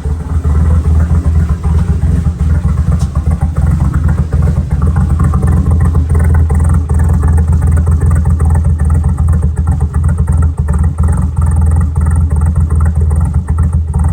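A 1988 Mitsubishi Starion's turbocharged 2.6-litre G54B four-cylinder running steadily with a deep, even exhaust note. It sounds through a new 3-inch turbo-back exhaust that stops short of its rear section, so the exhaust no longer dumps under the footwell.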